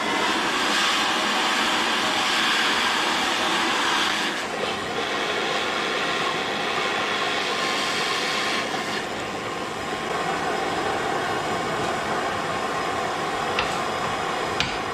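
Steady rushing blast of a heat gun warming the cast-iron engine block, so the block expands a little and the tight cam bearing can be driven in. The hiss turns duller about four seconds in.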